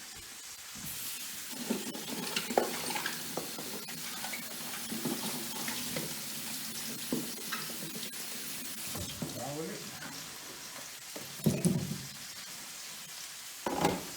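Fennel sizzling steadily in a frying pan on the stove, with scattered knocks and clicks of kitchen handling and two louder knocks near the end.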